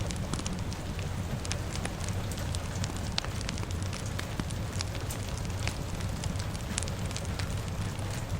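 Crackling fire with frequent irregular sharp pops and snaps, over a steady hiss of rain and a low rumble.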